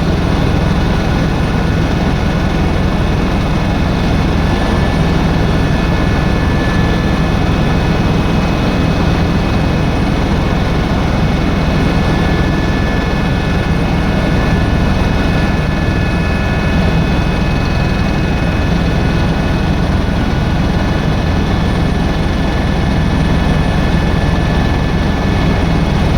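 Tour helicopter in flight, heard on board: a loud, unbroken drone of rotor and turbine engine, with a steady high whine over it.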